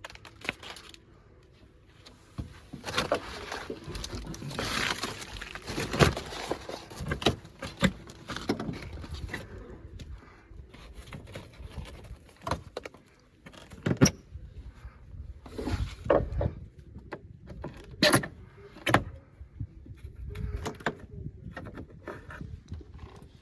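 Hand demolition on a rotten exterior wall: irregular knocks, clatters and scraping as siding and crumbling, rotted sheathing are pried and pulled away, with several sharp louder knocks spread through.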